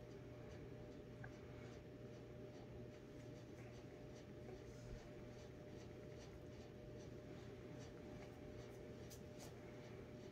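Faint crunching of a cookie being chewed: scattered small crisp clicks, a little louder near the end, over a steady low electrical hum.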